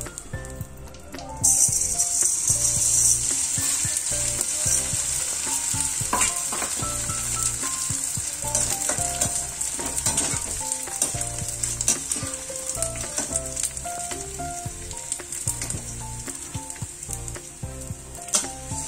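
Gond (edible gum) frying in hot ghee in a steel kadhai. A sizzle starts suddenly about a second and a half in and goes on steadily, with crackling as the pieces puff up, the sign that the gond is frying through.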